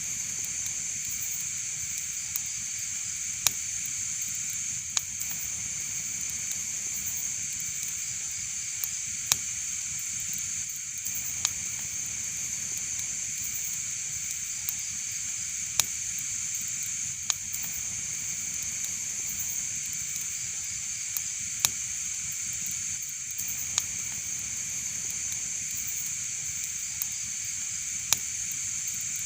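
Wood fire crackling: irregular sharp pops and snaps, one every second or two, some louder than others, over a steady high hiss.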